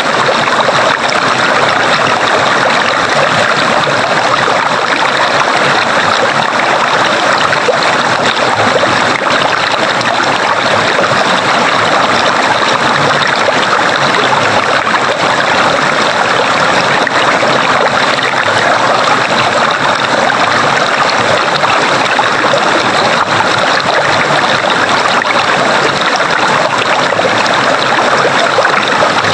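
A stream of running water, a steady rushing flow with no breaks.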